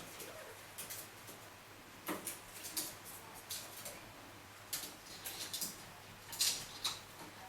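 Indian ringneck parrots scrabbling about on an air conditioner casing: scattered light scratches and clicks from their feet and beaks, about a dozen spread irregularly.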